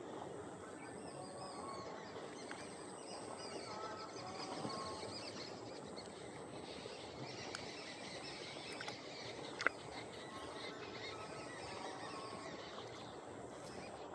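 Assorted birds chirping and calling over a steady outdoor background hiss, with a single sharp click about two-thirds of the way through.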